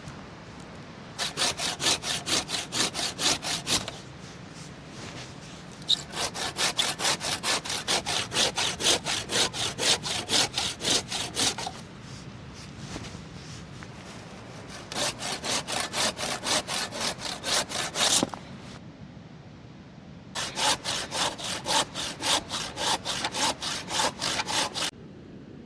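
A hand saw cutting through firewood in four bouts of quick, even back-and-forth strokes, about three a second, with short pauses between bouts.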